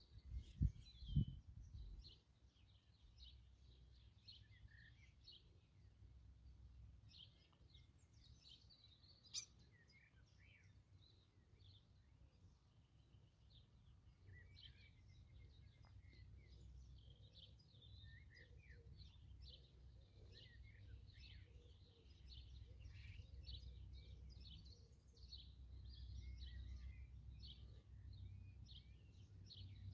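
Songbirds chirping and singing on and off, over a faint low rumble that grows louder in the second half. A few low thumps sound in the first two seconds and a single sharp click a little before ten seconds in.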